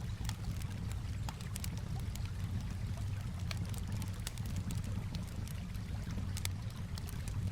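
Campfire crackling, with scattered sharp pops, over a steady low wash of calm water.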